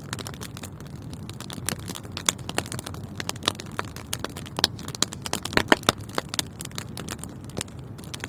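Wood fire burning in a fireplace: a steady low rumble of flames with irregular crackles and sharp pops, a quick run of louder pops about two-thirds of the way through.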